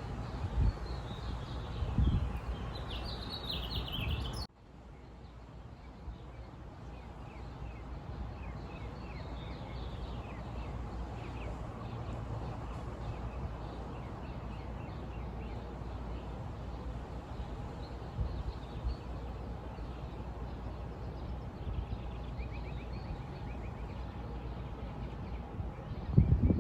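Outdoor ambience of small birds chirping faintly over a steady low rumble. There is an abrupt cut about four seconds in, after which the chirping continues.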